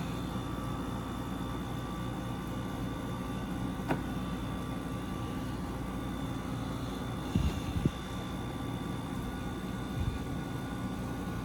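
Window air conditioners running with a steady fan and compressor hum. A click about a third of the way in, and a couple of thumps a little past halfway.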